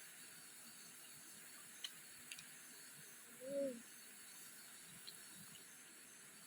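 Faint, steady high-pitched buzz of forest insects. A few light clicks come around two and five seconds in. About halfway there is one short, low, arching call or hum.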